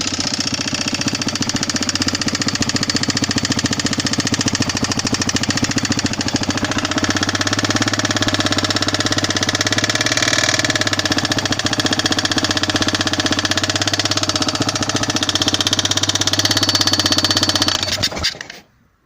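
Yamaha XT600 2KF's single-cylinder four-stroke engine running steadily with a very loud mechanical noise from the top end, which the owner, noting oil consumption, takes for a worn piston among other things. It cuts off abruptly near the end.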